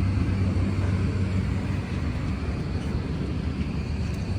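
A steady low engine drone over a broad hiss, with a constant hum and no distinct events.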